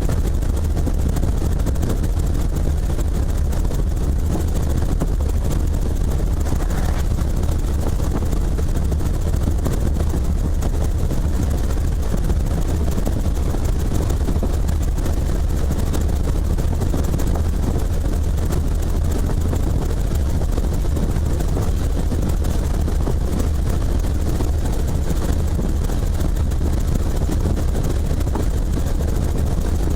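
Helicopter in flight: a steady, loud drone of rotor and engine.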